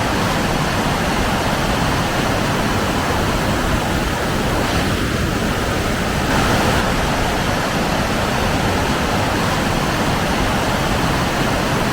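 A waterfall rushing steadily: an even, unbroken wash of falling water.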